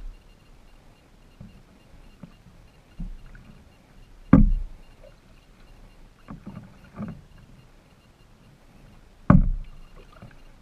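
Kayak being paddled: two loud, sudden paddle strokes about five seconds apart, with smaller splashes and knocks between them.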